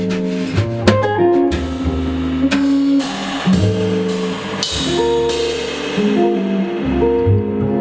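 A jazz trio playing live: guitar notes over low bass notes and a drum kit, with several cymbal crashes in the first few seconds that ring off after about five seconds.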